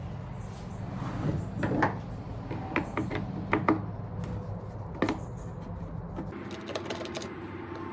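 Scattered clicks and light knocks of small parts and tools being handled while a leaf blower carburetor is fitted, over a steady low hum.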